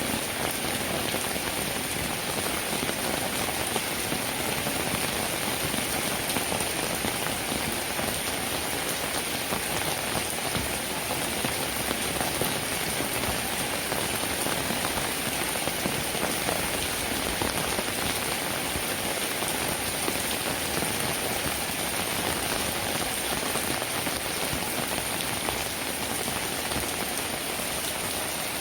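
Rain falling steadily: a dense, even patter of drops that neither swells nor breaks off.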